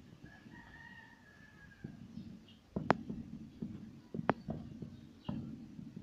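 A bird calls once with a long, steady held note of nearly two seconds. A few sharp clicks follow later, the loudest sounds here.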